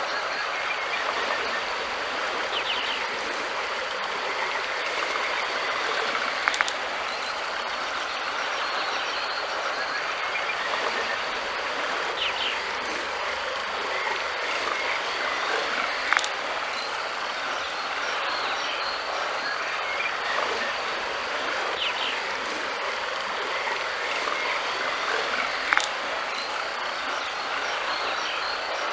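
River water flowing steadily, with three brief sharp clicks about ten seconds apart.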